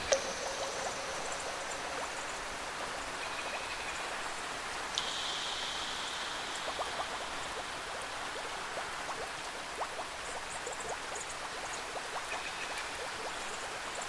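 Steady rain: an even hiss with many scattered drops ticking close by. A few faint held high tones sound over it, near the start and again about five seconds in.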